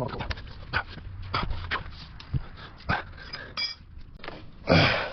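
Loose steel exhaust pipes of a Lexus IS500's factory catback knocking, clanking and scraping as they are dragged out from under the car, with a loud grunt of effort near the end.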